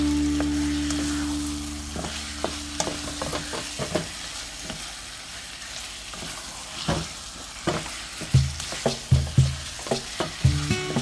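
A spatula stirring raw chicken thighs and sliced red onions in a hot pan: light sizzling with scrapes and clicks of the spatula against the pan, and a run of low knocks in the second half. A held musical chord fades out over the first two seconds.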